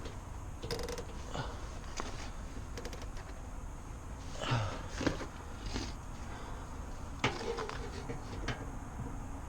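Scattered clicks, light knocks and rustling from hands handling wiring and parts inside a tight HVAC cabinet, over a low steady hum. A louder rustle comes about halfway through.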